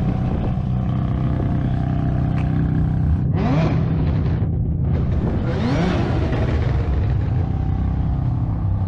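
Car engine running steadily, rising in pitch twice, about three and a half and six seconds in, as it is revved or accelerates.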